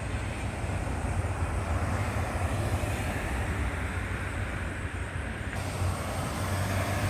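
CN freight train passing at a distance: a steady low rumble with no distinct clicks or horn.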